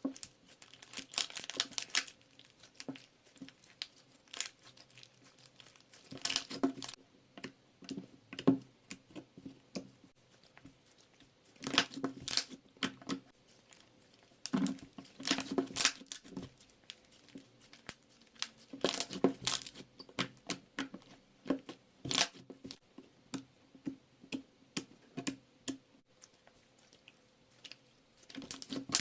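Paper or plastic being handled close up, crinkling and tearing in short irregular bursts with quiet gaps between.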